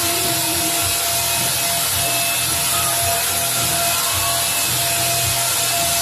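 Vacuum cleaner motor running steadily: a loud rushing hiss with a constant whine, and irregular low bumps underneath.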